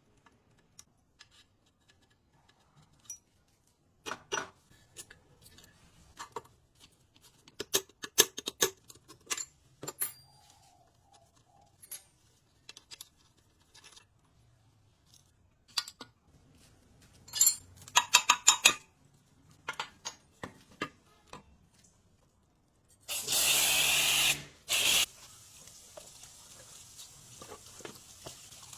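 Metal parts and hand tools being handled during engine repair work: scattered clicks and clinks, with a quick run of rattling about two thirds of the way through. Near the end comes a loud hiss about two seconds long, then a short second burst.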